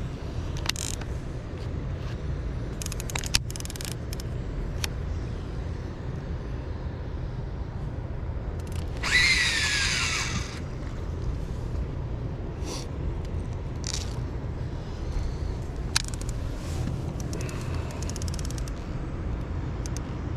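Steady low rumble of water running below a dam, with scattered clicks of tackle being handled. About nine seconds in, a fishing reel's spool whirs for about a second and a half, falling in pitch, as line pays out on a cast of a live creek chub bait.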